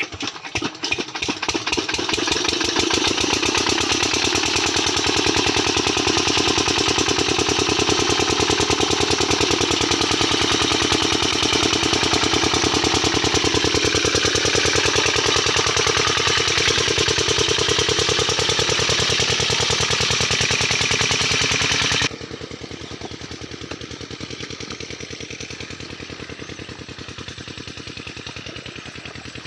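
Farm irrigation water pump engine running steadily with a fast, even firing beat. It grows louder over the first two seconds, and about three-quarters of the way through it suddenly turns quieter and duller.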